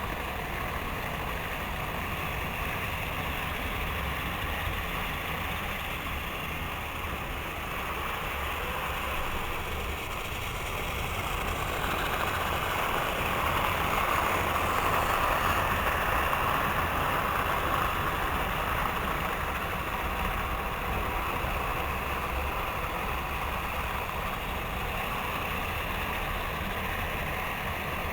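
Model trains running on their track loops: a steady mechanical running noise of motors and wheels on rail, growing louder in the middle as a train comes close, then easing back.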